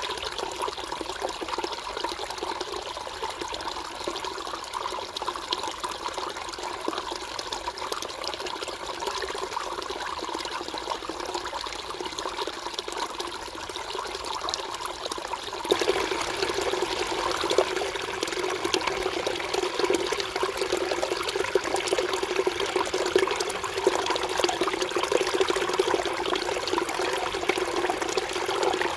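Mountain stream water flowing and splashing over rocks, a steady rushing babble. About halfway through it changes abruptly to a louder, fuller rush.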